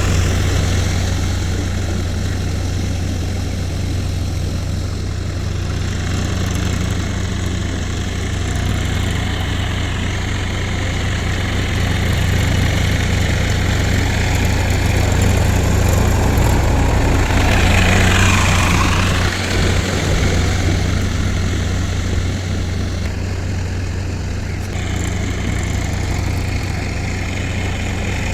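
Massey Ferguson tractor's diesel engine running steadily with a deep, constant hum. About 18 seconds in, a brief louder rush of noise rises over it.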